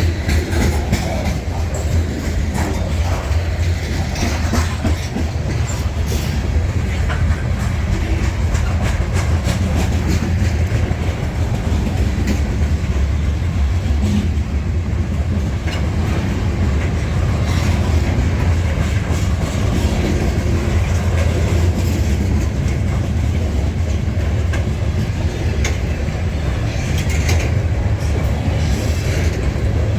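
Freight train rolling steadily past, its car wheels clacking over the rail joints above a constant low rumble.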